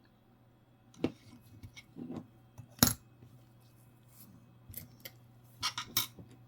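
Coins clinking as they are handled and set down one at a time, in scattered sharp clicks. The loudest comes about three seconds in, and a quick run of three or four clinks comes near the end.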